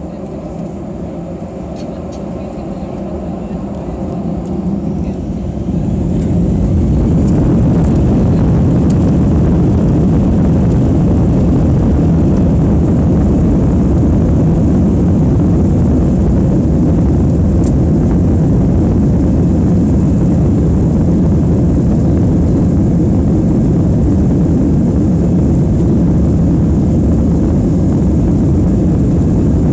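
Airbus A320 jet engines heard from inside the cabin, spooling up to takeoff thrust. The rumble grows over the first six or seven seconds, then holds loud and steady.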